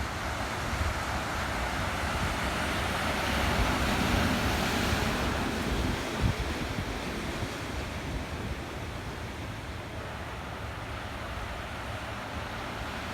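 Rough sea whipped up ahead of a typhoon: waves surging and breaking, with wind rumbling on the microphone. The noise swells about four seconds in and eases a little after six.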